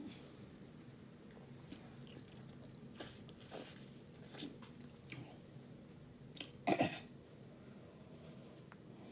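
A person chewing and eating seafood boil close to the microphone, with scattered wet mouth clicks and one louder sharp sound about two-thirds of the way through, over a faint steady hum.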